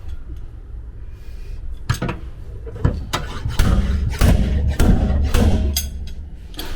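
Panel-beating hammer striking the sheet-steel body panel of a Toyota Sienta under repair: about seven separate blows at an uneven pace, starting about two seconds in, over background music.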